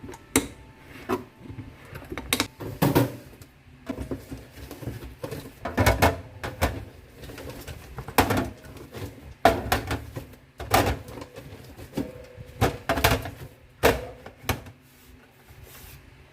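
Irregular knocks, taps and clatter of food containers and bags being handled and set down while a refrigerator is organised.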